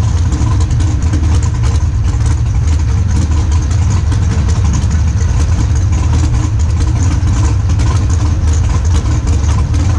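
Dragster engine idling with a steady low rumble, heard close up on board the car.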